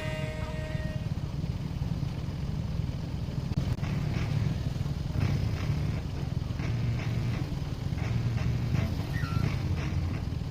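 Motorcycle engine running at a steady pace while riding, a low rumble at an even level.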